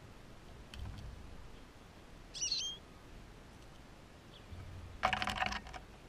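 A single short bird chirp with quick up-and-down pitch glides about two and a half seconds in. About five seconds in comes a louder, brief burst of clicking and rustling at the feeder, the loudest sound.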